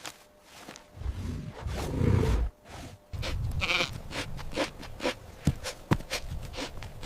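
Sheep bleating: after a low, noisy sound in the first couple of seconds, a run of short bleats starts about three seconds in.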